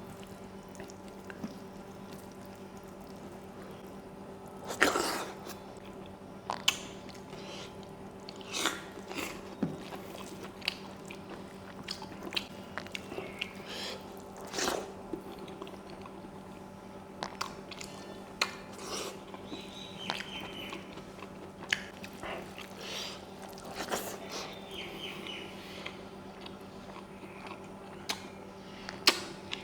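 Close-miked eating sounds: a person chewing and biting food with irregular wet clicks and small crunches, the loudest about five seconds in and again near the end. A steady low hum runs underneath.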